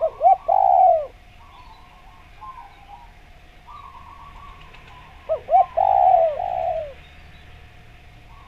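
Spotted dove (derkuku) cooing in two phrases, one at the start and another about five seconds in. Each phrase is a couple of short notes followed by a long, falling coo. Fainter chirping from other birds fills the gaps.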